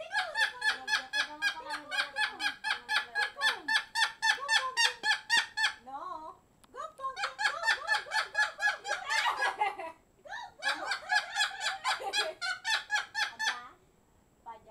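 Pet parrot giving a rapid, laugh-like cackle: high pitched notes repeated about seven times a second, in three bouts with short breaks between them.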